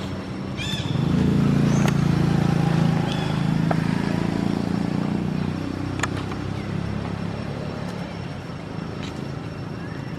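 A motor vehicle passing: a low engine rumble that swells about a second in, holds for a few seconds and fades away. A few short high chirps sound over it.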